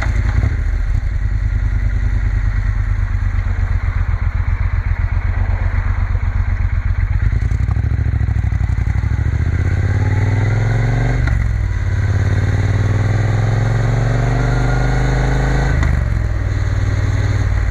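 Triumph Bonneville T120's parallel-twin engine under way on the road. In the second half it accelerates twice, rising in pitch each time, with a short dip at each gear change.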